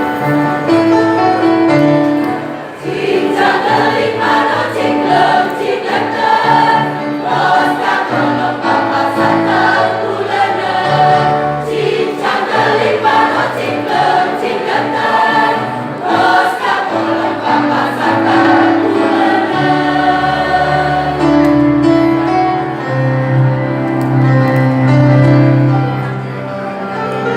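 A choir singing in harmony, several voice parts moving together over low held notes.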